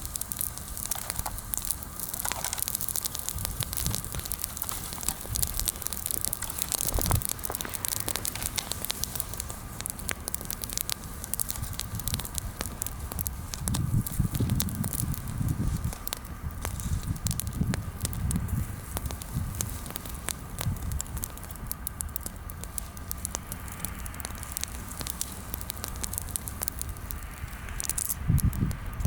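Bonfire of freshly pruned green branches burning, with a steady scatter of sharp crackles and pops throughout. Low rumbles come and go, most of all around the middle and near the end.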